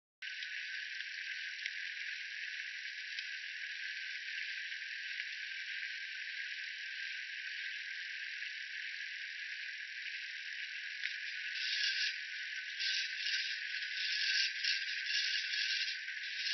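Grinding, rattling noise from a Juiced e-bike, which the owner presents as a fault. It starts abruptly and runs steadily, then turns uneven and pulsing, with louder bursts, from about two-thirds of the way in.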